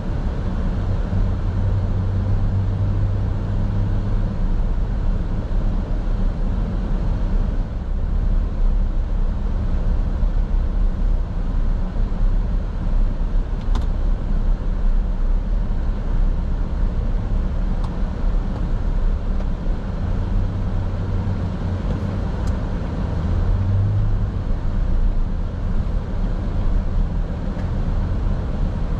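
Steady road rumble of a car being driven, heard from the dashboard: a low, even drone of tyres and engine, with a few faint ticks partway through.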